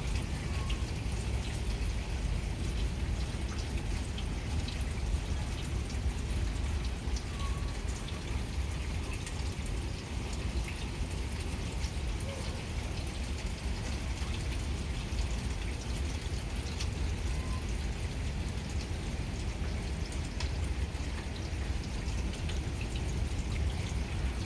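Light rain after a thunderstorm: a steady patter of raindrops and drips with water trickling, and many small scattered drop clicks. A steady low rumble runs underneath.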